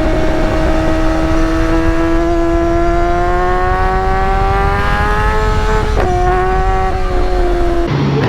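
High-revving sportbike engine under steady acceleration, its pitch climbing slowly, with one quick upshift about six seconds in. Shortly before the end the engine note cuts abruptly to a different sound.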